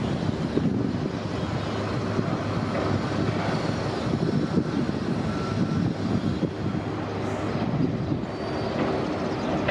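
City bus running, a steady engine hum with road noise.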